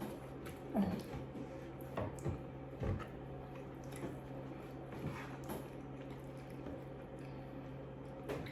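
People chewing and biting food close to the microphone: soft, wet mouth sounds and small clicks at irregular moments, over a steady low hum.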